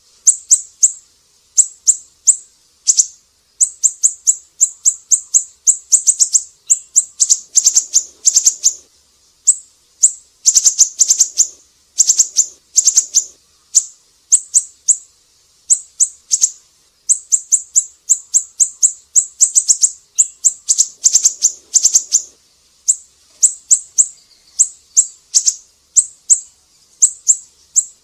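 Siri-siri bird singing: runs of quick, sharp, high-pitched chirps, several in a row, broken by short pauses, as in a song-tutor recording for cage birds.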